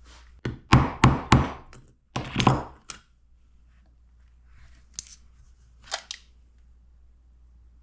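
Metal tools and parts clanking as a flywheel puller is handled and set up: a quick run of knocks and clinks in the first three seconds, then two more clinks a few seconds later.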